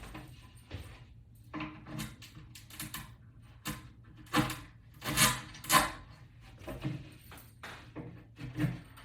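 Irregular clicks, knocks and light clatter of hardware being handled during assembly of a wall-mount bracket, with a louder cluster of knocks about halfway through.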